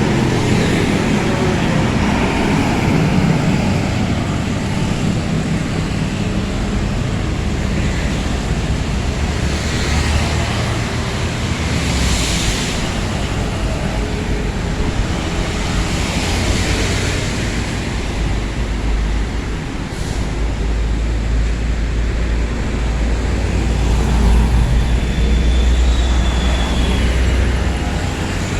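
Steady road and engine noise of a moving motor vehicle, with several rushes of passing traffic swelling and fading. The low rumble grows heavier in the last third.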